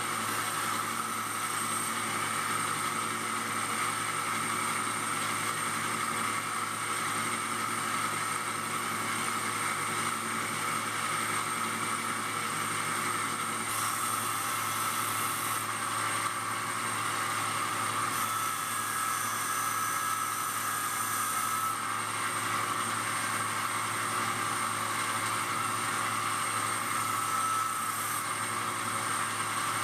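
Disc grinder running steadily with a motor hum and whir. Three times, at about 14, 18 and 27 seconds in, a brief hiss of grinding can be heard as the workpiece is pressed against the disc.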